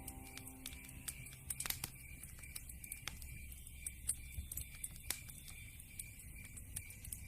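Log fire crackling: irregular small snaps and ticks, with a few louder pops about a second and a half, four and five seconds in. A faint low steady tone lies underneath.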